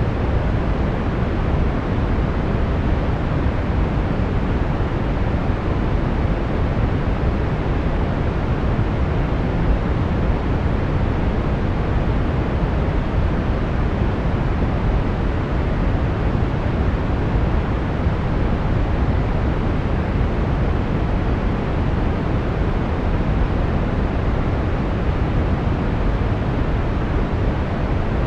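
Steady brown noise: an even, deep rushing hiss, strongest in the low end, with no change or events.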